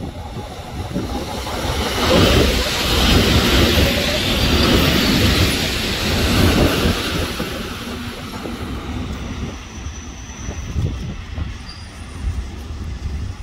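EN57 electric multiple unit passing close by, its wheels rumbling and clattering on the rails. It grows loud about two seconds in and fades away over the second half.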